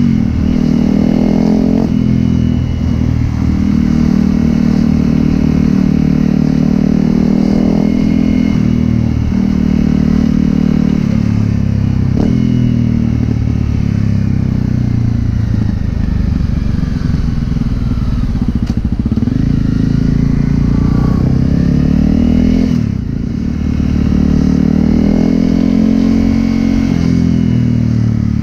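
Honda CRF250L's single-cylinder four-stroke engine running through a Yoshimura exhaust while riding, its note rising and falling repeatedly with the revs. There is a brief lull about two-thirds of the way through.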